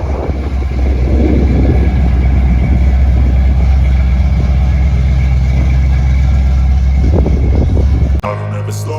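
A car's engine running with a steady, loud low rumble. About eight seconds in it cuts off abruptly and guitar music starts.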